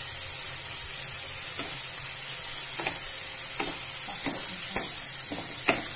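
Prawns, onions and green chillies sizzling in butter in a non-stick kadai while a wooden spatula stirs them, scraping and tapping against the pan a few times. The sizzle gets louder about four seconds in.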